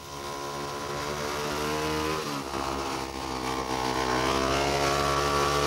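Speedway motorcycle's 500 cc single-cylinder engine running hard as the bike goes round a bend. Its pitch dips about two seconds in, then holds steady.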